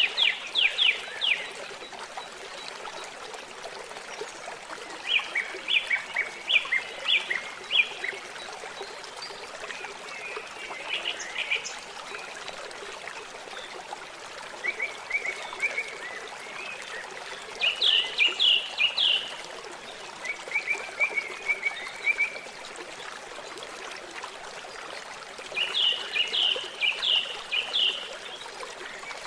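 Steady trickling water, with a songbird repeatedly singing short phrases of quick, rapidly repeated notes every few seconds.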